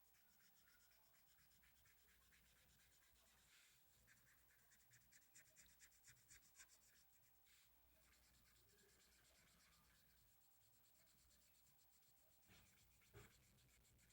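Faint scratching of a felt-tip marker colouring on paper in quick back-and-forth strokes, heard mostly a few seconds in, with a couple of light taps near the end.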